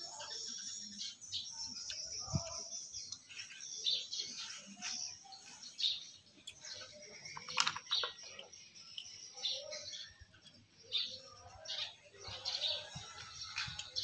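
Small birds chirping repeatedly, mixed with a few sharp clicks from boiled green mussel shells being handled and pried open.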